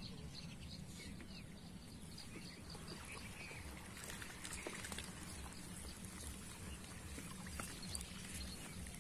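Faint outdoor ambience: birds calling with short, repeated high notes in the first few seconds, over a low steady rumble and a few scattered light ticks.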